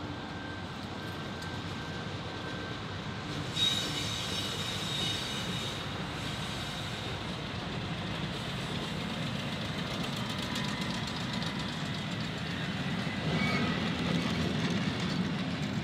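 Freight train rolling past on the rails, with a high wheel squeal that starts suddenly about four seconds in. A low rumble grows louder near the end.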